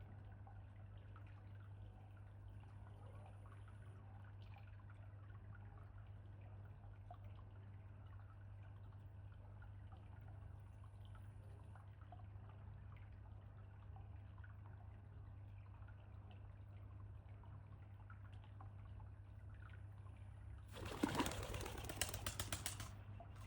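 Faint, steady trickle of water at a small pond over a steady low hum. About 21 seconds in, a loud flurry of noise lasts about two seconds.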